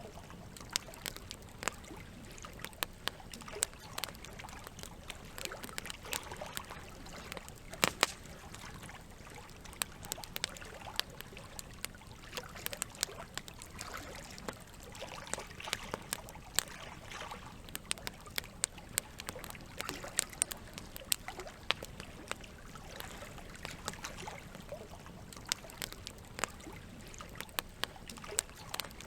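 Campfire crackling, with sharp pops scattered irregularly and the loudest about eight seconds in, over a steady sound of water.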